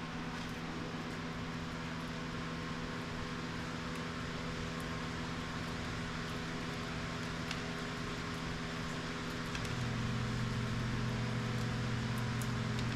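Steady mechanical hum made of several fixed tones, which drops to a lower, slightly louder hum about ten seconds in, with a few faint light clicks over it.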